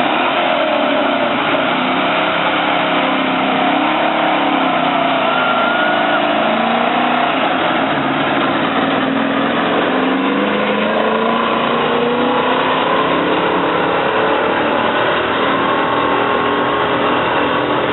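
Truck engine revving hard and running steadily loud, its pitch wandering up and down.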